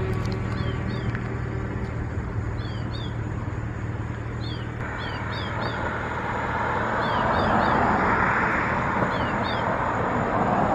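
A small songbird calling, short downward-sliding chirps in clusters of two or three repeated every couple of seconds, over a steady low hum and a rush of noise like traffic that swells to its loudest about eight seconds in and then eases.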